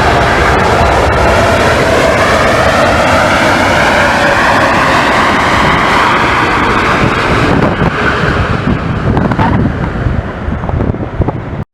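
Jet airliner passing close by, its engines running loud with whining tones that slide upward, then fading over the last few seconds. Wind buffets the microphone.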